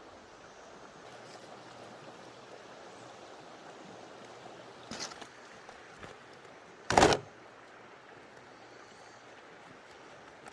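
A creek running steadily, with a small knock about five seconds in and a louder, short impact about two seconds later.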